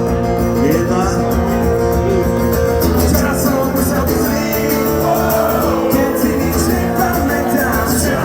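Live band music: a rock song playing at full level.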